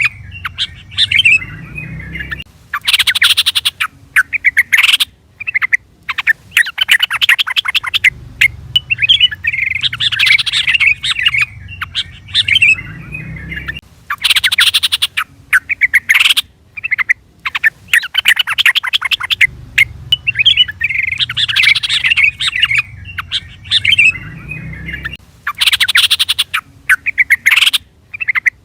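Yellow-vented bulbul (trucukan) calling and chattering in loud, bubbly chirping phrases, a recorded call sequence that repeats about every eleven seconds as a loop.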